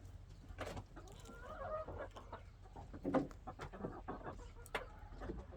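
Domestic chickens clucking around the coop, with scattered clicks and a single knock about three seconds in.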